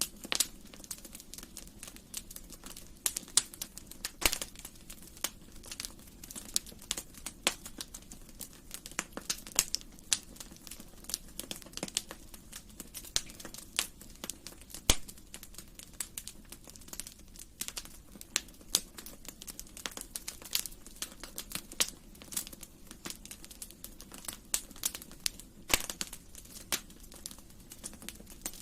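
Wood fire crackling in a fireplace: irregular sharp pops and snaps, several a second, some louder than others, over a low steady hiss of the burning.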